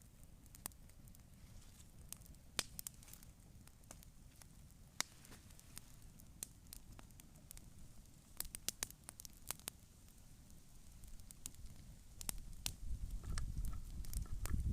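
Wood campfire crackling, with scattered sharp pops and a quick run of them about halfway through. A low rumble comes up near the end.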